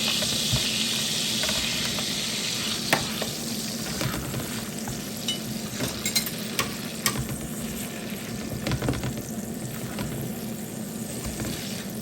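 Chopped onions sizzling as they fry in melted butter in a pan, stirred with a utensil that clicks against the pan a few times. The sizzle is loudest in the first few seconds, then eases.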